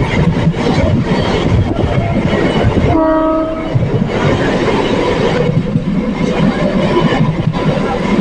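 MEMU electric train running at speed, heard from its open doorway as a steady loud rush of wheel and track noise. A train horn sounds once, briefly, about three seconds in.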